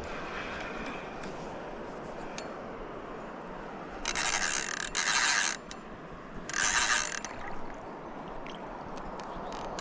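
Fishing reel ratcheting in two short bursts, about four and six and a half seconds in, over the steady rush of river water.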